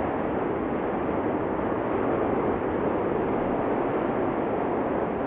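Steady, unbroken noise from the Cumbre Vieja volcano's fissure eruption, even in level throughout, with no separate blasts.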